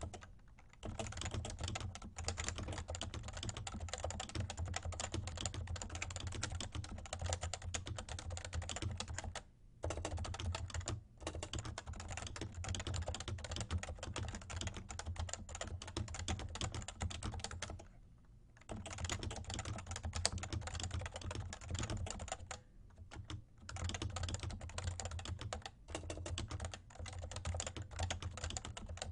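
Typing on a Realforce R2 tenkeyless Topre keyboard with light 30 g keys: fast, continuous key strokes in long runs, broken by brief pauses of under a second a few times.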